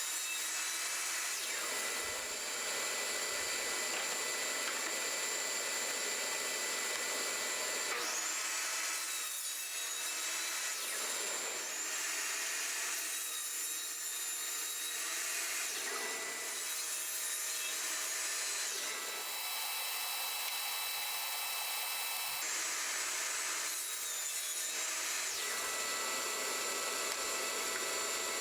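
An electric power tool running steadily on wood, a continuous motor whine over a rough, rubbing hiss of the wood being cut or sanded.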